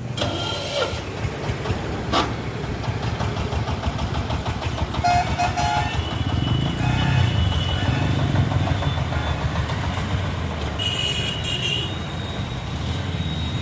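Strong wind buffeting the microphone: a constant, uneven low rumble. A few short higher tones come through about five seconds in and again near the end.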